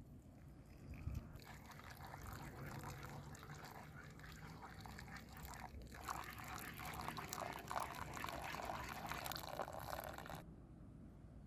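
Food sizzling on a hot saj: a dense hiss full of fine crackles that starts about a second and a half in, dips briefly midway and cuts off abruptly near the end.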